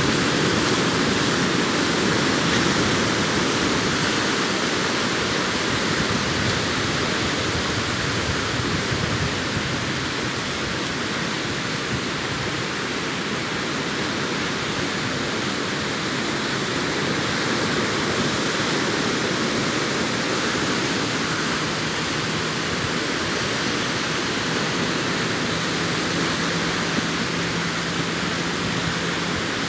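Sea surf: waves breaking and washing ashore in a steady, continuous rush.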